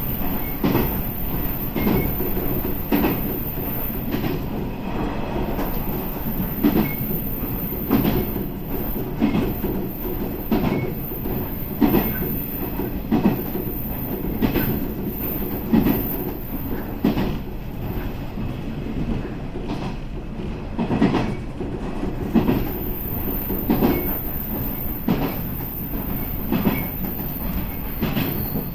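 Local electric train running along the track. Its wheels clack over rail joints about once a second above a steady low rumble.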